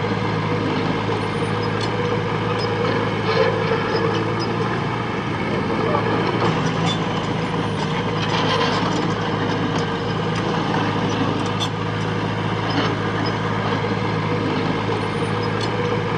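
Diesel engine of heavy earthmoving machinery running steadily under load, with scattered metallic clicks and clanks.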